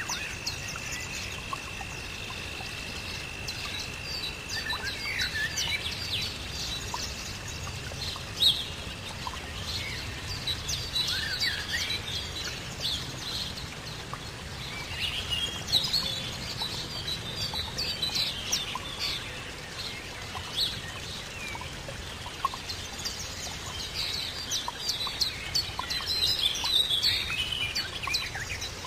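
Wild birds chirping and calling over a steady background noise, with many short chirps throughout and a steady high tone held for about the first nine seconds.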